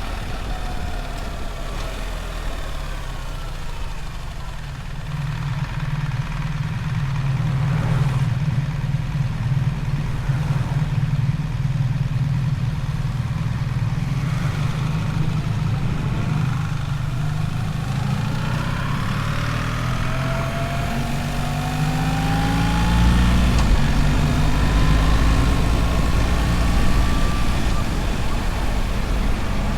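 BMW R1300 GS's boxer twin engine running under way. In the second half its pitch climbs steadily as the bike accelerates.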